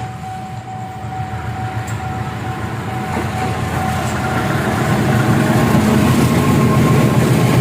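Diesel locomotive engine rumbling close by, growing steadily louder as the train comes on.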